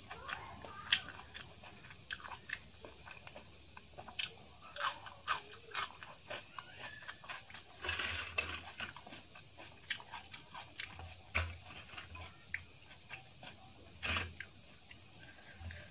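Close-miked eating sounds: a person chewing and biting food, with irregular crisp crunches.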